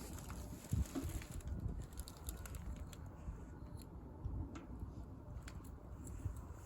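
Wood fire crackling in a homemade bucket fire pit: scattered small pops and snaps, one louder about a second in, over a low steady rumble.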